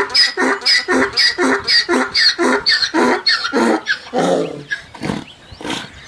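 A duck quacking in a rapid series, about four quacks a second. About four seconds in, the quacks slow down and grow fainter.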